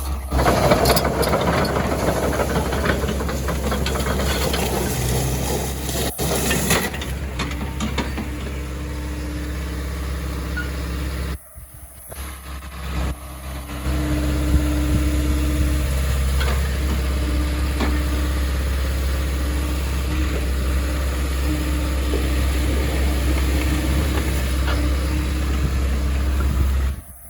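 A large diesel engine, most likely an excavator's, runs steadily with a deep hum. There is rough, noisy grinding over the first several seconds, and the sound drops out for about two seconds around eleven seconds in.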